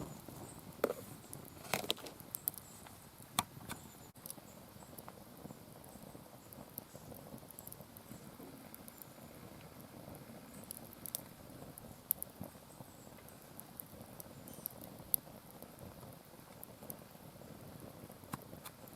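Wood fire in a round fire pit crackling, with scattered sharp pops over a faint steady hiss.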